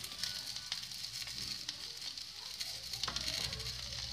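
Oil sizzling softly in a pan as cubes of wheat-flour snack shallow-fry, with scattered small crackling pops.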